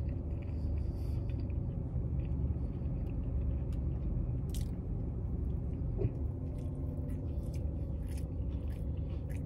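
A person biting into and chewing a chicken slider dipped in ranch, with small scattered mouth clicks, over a steady low rumble inside the car.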